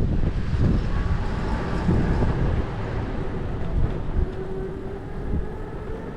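Steady low rumble of wind and road noise while riding an electric hybrid bike, slowly easing off, with a faint steady whine coming in about four seconds in.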